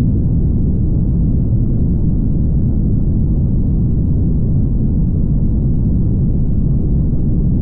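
Steady low road rumble of a car driving on the highway, with no distinct events.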